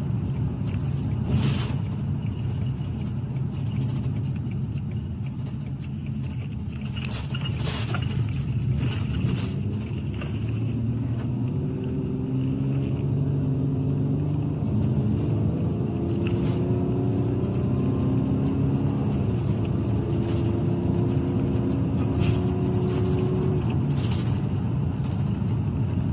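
Police car driving: steady engine and road noise heard from inside the vehicle, with a few sharp knocks in the first half. The engine note rises and falls in the second half.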